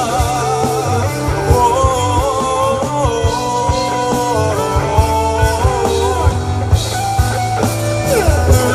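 Live rock band playing an instrumental passage: drum kit and bass guitar keep a steady beat under a lead melody of sustained, bending notes.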